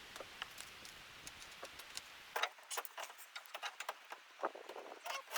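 Faint scattered clicks over a low hiss, then, a little over two seconds in, a run of short high bird chirps.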